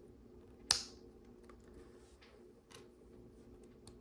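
Small plastic LEGO pieces clicking and tapping as they are handled and fitted: one sharp click a little under a second in, then a few faint ticks.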